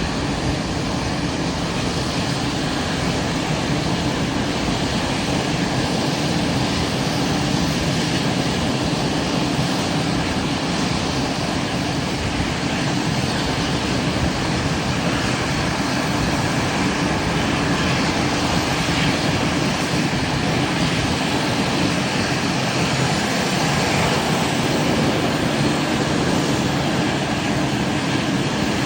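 Rolls-Royce Trent 800 turbofan engines of a Boeing 777-200 running steadily, a dense, even rumble and rush that grows a little louder in the last few seconds.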